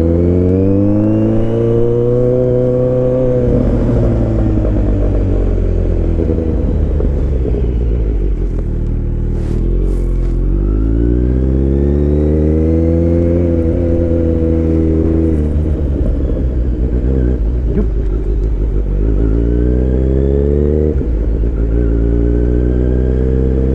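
A 2023 Kawasaki Z900's inline-four engine under way. Its pitch rises steadily as the bike accelerates, then falls away as it slows, three times over, and it runs steadily near the end.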